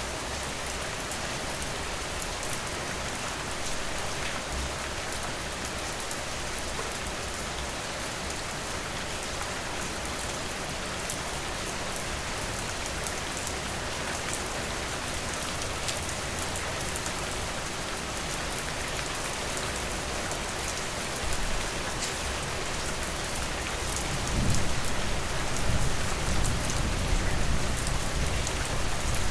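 Steady rain falling on a porch, an even hiss with scattered sharp ticks of drops. Near the end a low rumble swells up under the rain and the whole sound gets louder.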